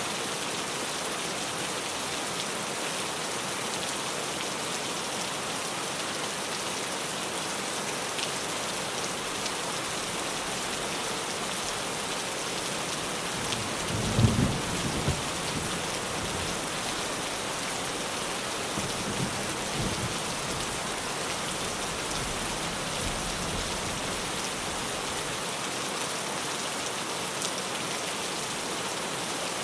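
Heavy rain drumming steadily on a tin roof, with a roll of thunder about halfway through and a fainter rumble a few seconds later.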